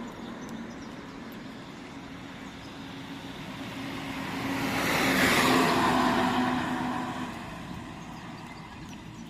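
A car passing by: its sound builds over a couple of seconds, peaks about five and a half seconds in, then fades away.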